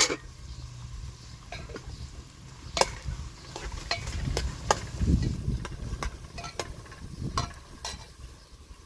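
Food frying in a pan while it is stirred, with a steady sizzle and about a dozen sharp clicks of a utensil striking the pan at irregular intervals.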